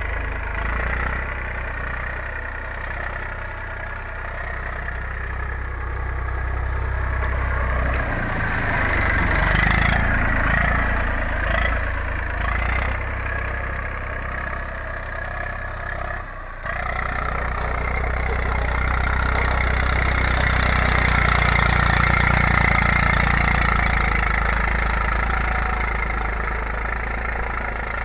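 Eicher 380 tractor's three-cylinder diesel engine running steadily under field work, its level rising and falling slowly, with a brief dip about sixteen seconds in.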